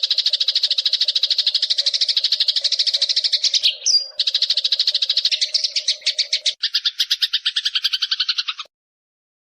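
Songbird "mastering" recording: a rapid, buzzy, evenly pulsed chattering trill. It breaks briefly about four seconds in for a short sliding note, resumes, and cuts off shortly before the end.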